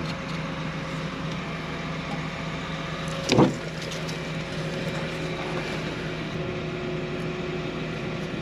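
A vehicle running steadily, its engine hum even throughout, with one brief louder sound about three seconds in.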